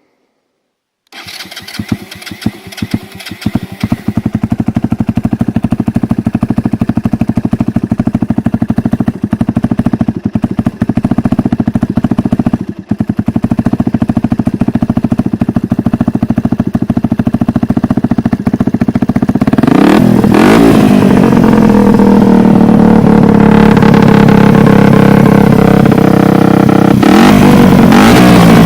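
Suzuki DR 125 SE's single-cylinder four-stroke engine, breathing through a homemade exhaust, starting about a second in and firing unevenly for a few seconds before settling into a steady idle. About twenty seconds in it is revved up and holds a higher, louder run.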